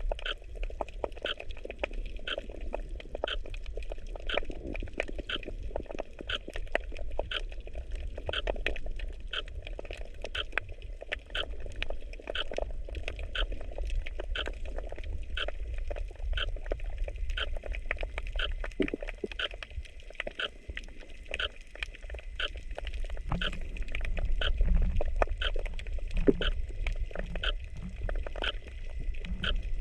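Underwater sound picked up by a camera in its waterproof housing: a steady low rumble of moving water with sharp clicks repeating regularly about twice a second.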